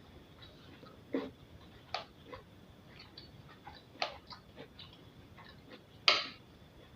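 Quiet eating sounds of someone chewing abacha: small wet clicks of the mouth, with four louder short crunches or knocks spread through, the loudest near the end.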